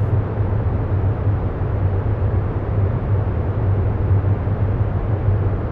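Steady low rumbling noise bed with a deep hum, unchanging throughout, as used under meditation narration.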